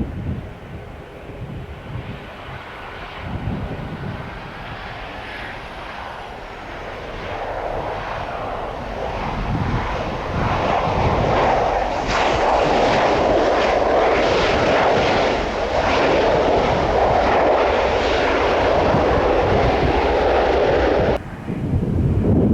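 Jet airliner coming in to land, its engine noise growing louder as it passes close by, then cutting off abruptly about a second before the end.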